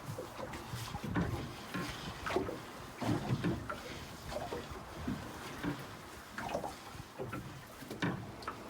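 Water slapping against a small fishing boat, with irregular knocks and clatter on board.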